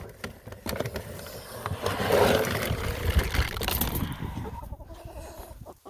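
Rustling, clicking and scraping as chicken scratch grain is handled and tossed, with a louder hiss of scattering feed about two seconds in and a few dull thumps.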